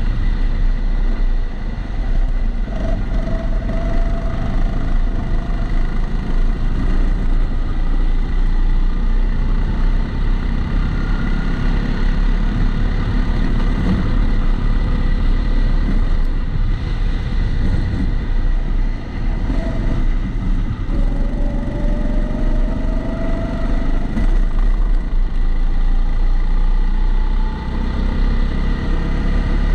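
Kombikart Eco rental kart engine running at speed, heard onboard over a lap, its pitch rising in places as the kart accelerates. The sound is recorded through the camera's waterproof housing, which adds a steady extraneous noise throughout.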